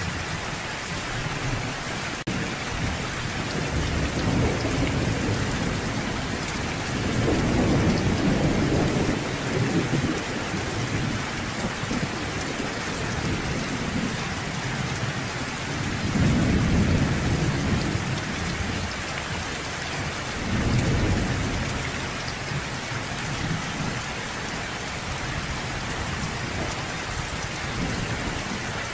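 Steady rain hissing on surfaces, with thunder rumbling low several times: a long roll from about 4 to 10 seconds in, then two shorter rumbles past the middle.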